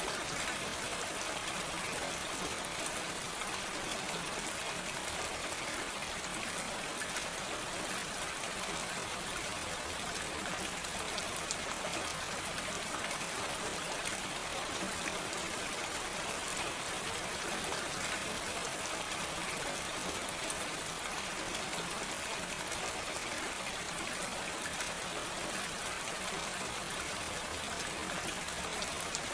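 Steady, gentle rain falling without thunder: an even hiss of many drops with faint scattered patters.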